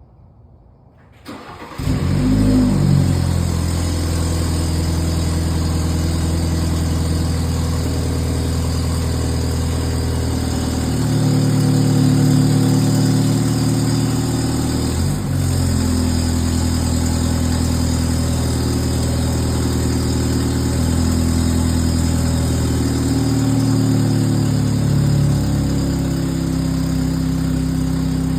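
BMW B48 turbocharged four-cylinder engine with a catless downpipe, cold-started: it catches about a second and a half in with a short flare of revs, then settles into a steady high cold idle, the idle pitch shifting a little twice.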